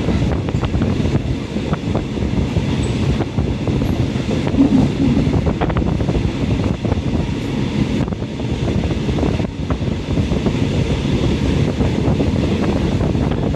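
Passenger train running along the track, heard from inside the carriage: a steady rumble of wheels on rails with scattered faint clicks.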